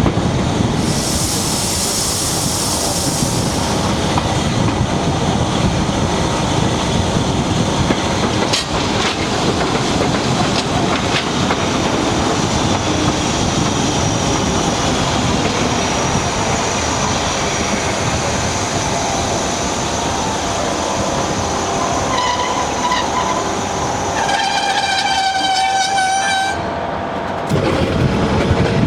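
Train running on the rails with steady rumble and clickety-clack of the wheels, a brief hiss a second or so in, and high ringing tones from about three-quarters of the way through.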